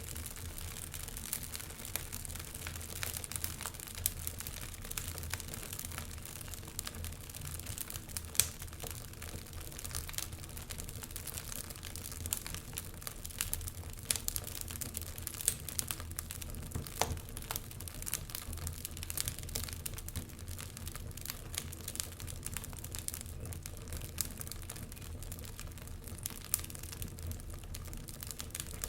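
Wood fire crackling with many small snaps and an occasional louder pop, over a low steady rumble.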